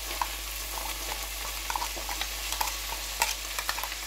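Okra, small onions and green chillies sizzling in oil in a pot on the stove, with scattered scrapes and light taps of a spatula as ground coconut paste is scraped from a bowl into the pot.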